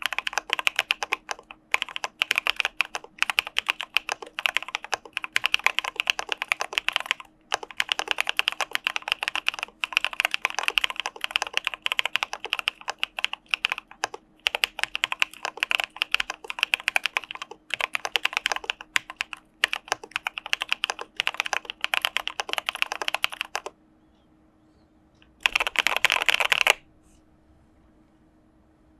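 Typing on an Arisu mechanical keyboard with CPSD linear switches: fast, dense runs of keystrokes broken by brief pauses. The typing stops about three-quarters of the way through, with one more short flurry a couple of seconds later.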